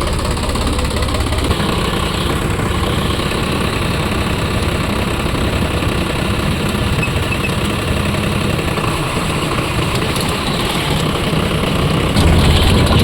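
Sonalika DI 42 RX tractor's diesel engine running steadily, getting louder near the end.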